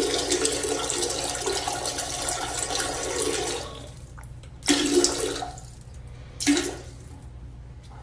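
Rushing water, like a running tap or a flushing toilet, fading out after about three and a half seconds. Two short pitched sounds follow, about a second and a half apart.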